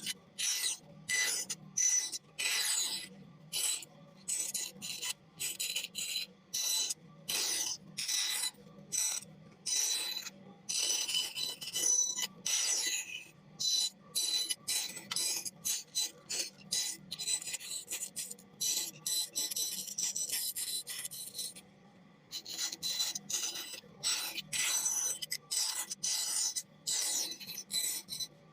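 A blade cutting and scraping into wood in quick, short, crisp rasping strokes, about two a second, with a brief pause about three quarters of the way through.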